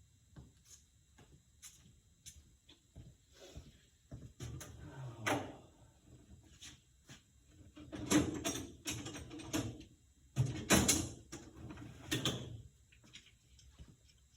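Hand tools clattering and knocking as someone rummages through them, with light clicks at first and louder bursts of clatter in the second half.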